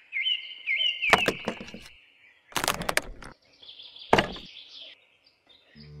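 Birds chirping in short repeated calls, broken three times by brief bursts of knocking or clatter. Music starts right at the end.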